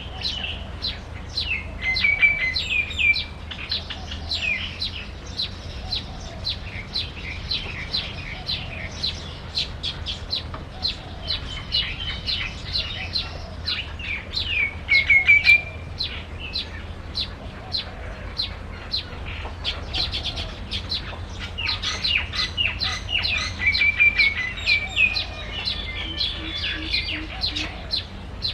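Small birds chirping: a continuous stream of short, high chirps, several a second, with a few louder calls that slide downward in pitch.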